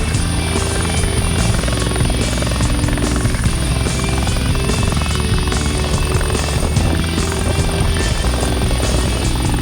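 Bell 412EP helicopter running steadily in flight, a continuous dense hum of its twin turboshaft engines and rotor, with music playing over it.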